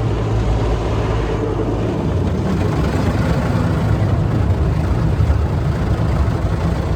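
Automatic car wash working over the car, heard from inside the cabin: a steady rumble of the machinery with the wash of brushes and water scrubbing soap off the body.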